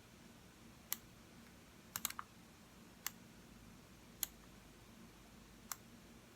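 Computer mouse button clicking: single clicks a second or so apart, with a quick run of three or four clicks about two seconds in.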